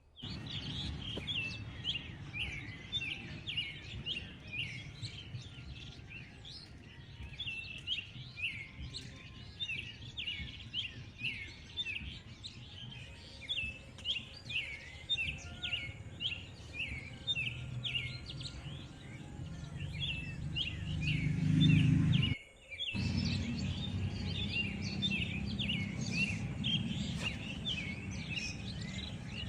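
Many small birds chirping continuously in a dense chorus of short, repeated high chirps, over a low background rumble that grows louder about twenty seconds in. The sound cuts out completely for about half a second around twenty-two seconds in, then the chorus resumes.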